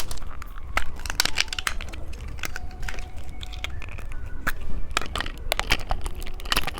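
Close-up crunching and crackling from a novelty phone-shaped candy: a string of sharp, irregular crackles.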